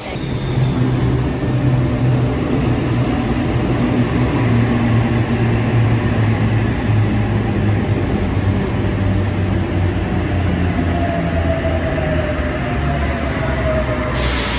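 Electric suburban train running close by, a loud steady rumble and hum, with a whine falling in pitch near the end.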